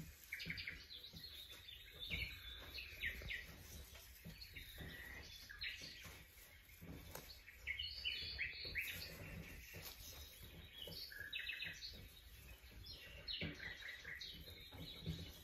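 Small birds chirping in clusters of quick, short, high calls, over a faint low background rumble.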